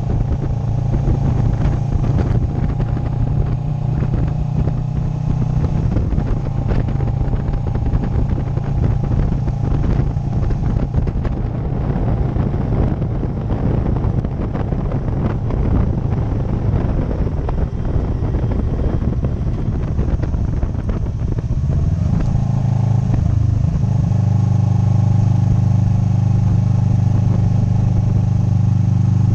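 Motorcycle engine running steadily while riding, with wind rushing and buffeting over the microphone. About 22 seconds in the engine note shifts, then settles into a steadier, slightly louder drone.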